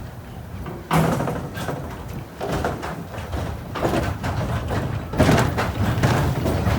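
Mine-train roller coaster cars clattering on the track, with a sudden loud clunk about a second in and more knocks and surges after it.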